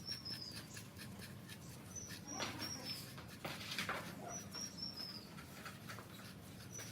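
An animal calling: short, high chirps, three or four falling notes in each run, repeated about every two seconds. A few light knocks fall in the middle.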